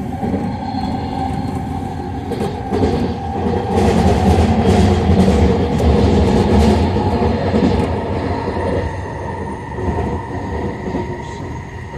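A SkyTrain light-metro car running along its elevated track: a continuous rumble of wheels on rail with light clicks and a faint steady whine, growing louder for a few seconds in the middle and then easing off.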